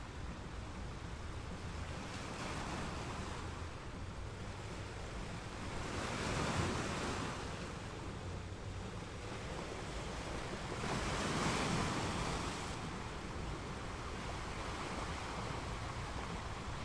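Sea waves washing in steadily, with two louder surges about six and eleven seconds in.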